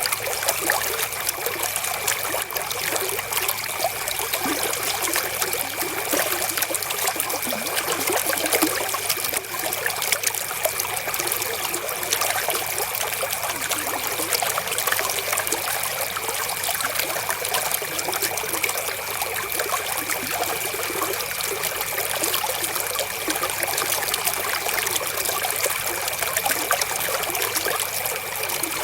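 River water flowing and trickling in a steady, unbroken rush.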